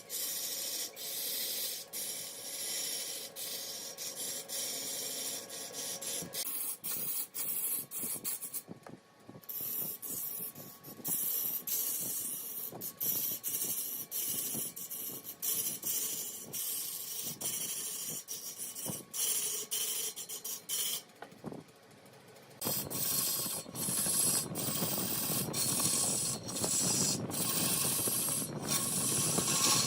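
Wood lathe turning a large block of wood while a turning tool scrapes and cuts the spinning surface: a noisy scraping with many short clicks. The sound changes abruptly about six seconds in and again about 23 seconds in, where it gets fuller in the low end.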